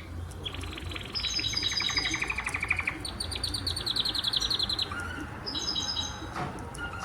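Domestic canary singing: a string of rapid trills, each a fast run of repeated notes, with the song switching to a new pitch every second or so.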